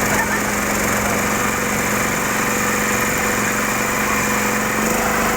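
A small engine running steadily at a constant pitch, with an even hum that does not rise or fall.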